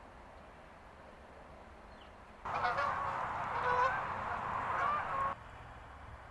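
A flock of geese honking, many short overlapping calls for about three seconds, starting and stopping abruptly, with a faint steady outdoor hiss before and after.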